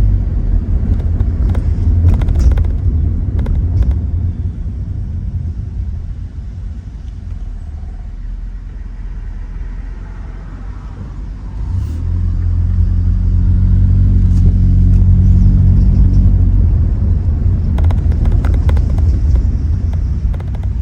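2017 Honda Accord LX's 2.4-litre four-cylinder with its muffler deleted, a deep exhaust drone heard from inside the cabin with the windows down. The drone eases off early on, stays lower for several seconds, then swells again about twelve seconds in as the car pulls harder, before easing near the end.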